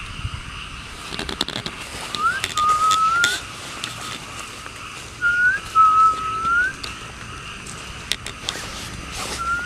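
A repeated whistled call, three times about three and a half seconds apart: each one a short quick upward note straight into a longer, slightly rising note. It is the strange sound in the cemetery that the host points out to viewers.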